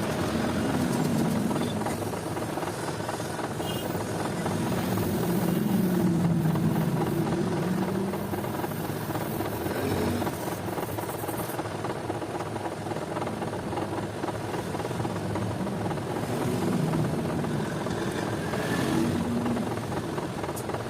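A machine running steadily, a continuous mechanical drone with a wavering low hum.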